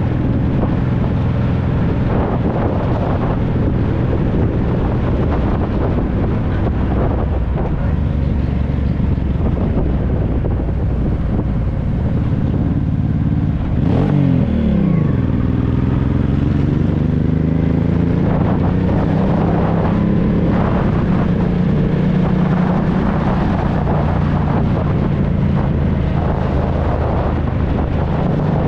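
Honda Deauville 650's V-twin engine running through an aftermarket Dominator exhaust while riding, with wind noise on the microphone. About halfway through, the engine note drops sharply, then climbs steadily again.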